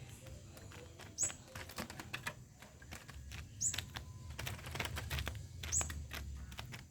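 A small bird giving a short, high, falling chirp about every two seconds, three times, among irregular light clicks and tapping.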